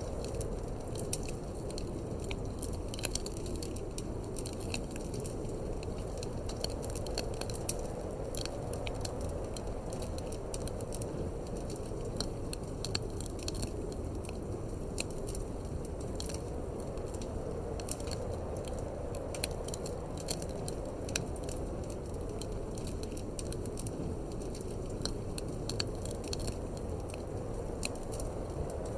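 Wood fire crackling in a fireplace: irregular sharp snaps and pops over a steady low rumble of wind.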